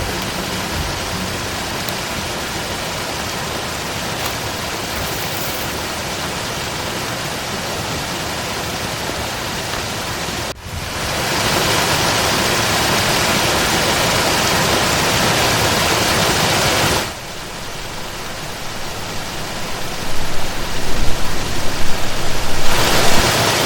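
Eselbank Waterfall rushing: a steady wash of falling water. The level jumps up or down sharply twice and turns louder and uneven near the end.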